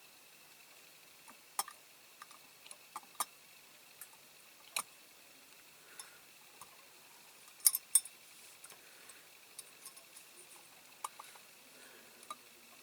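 Scattered small clicks and taps of a diecast metal toy van and its door being handled as the door is fitted, with a sharp pair of clicks about eight seconds in as the loudest.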